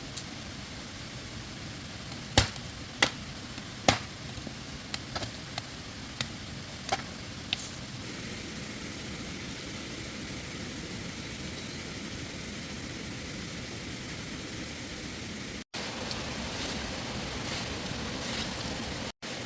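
A steady hiss of background noise. About two to four seconds in come three loud, sharp knocks, followed by smaller clicks until about eight seconds in. The sound cuts out for an instant twice near the end.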